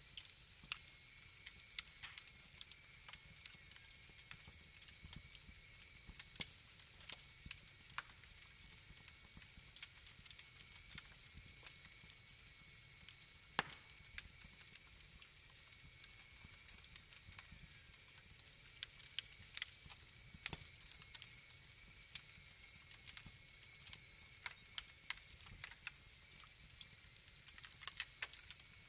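Wood fire crackling: irregular sharp pops and snaps over a faint steady hiss, with a louder pop about halfway through and another a few seconds later.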